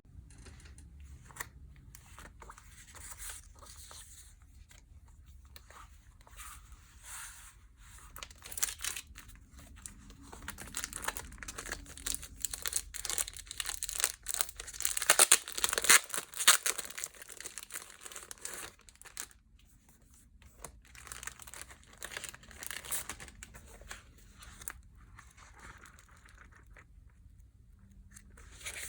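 Packaging being torn open and crinkled by hand: irregular rustling and tearing, loudest and busiest about halfway through.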